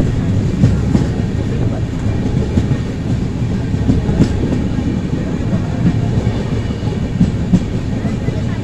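Passenger train running along the track: a steady rumble, with wheels clicking over rail joints at irregular intervals.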